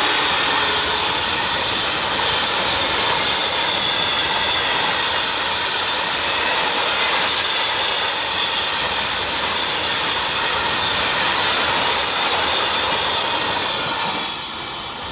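Freight train of BOBYN hopper wagons rolling past at speed: a steady, loud roar of wheels on rail that drops somewhat near the end.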